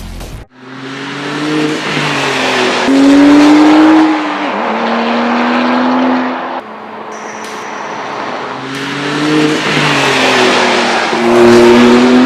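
High-performance car engine accelerating hard in two runs; each time the pitch climbs and then drops back at gear changes.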